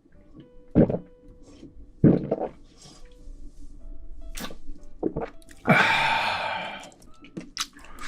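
A person gulping down beer in several swallows, then a loud, breathy exhale lasting about a second after the drink, with faint background music underneath.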